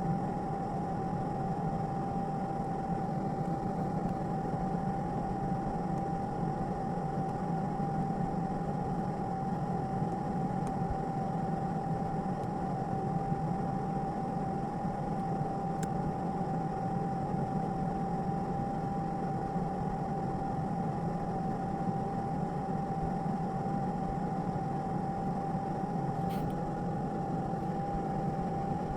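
Steady machine hum with a constant high whine over it, unchanging throughout.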